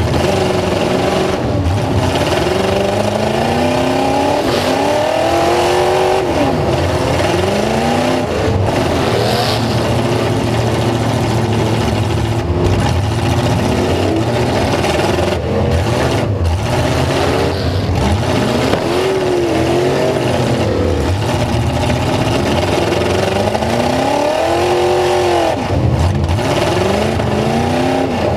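Several full-size trucks' engines revving hard and easing off over and over, their pitches rising and falling and overlapping.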